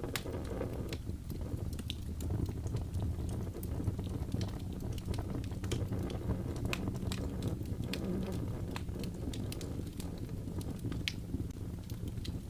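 Wood fire burning, with frequent irregular sharp crackles and pops over a steady low rumble of flames.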